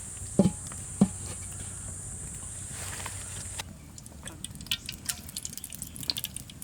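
Frog pieces frying in hot oil: a steady high sizzle that cuts off about three and a half seconds in, then scattered crackles and pops. Two sharp knocks in the first second.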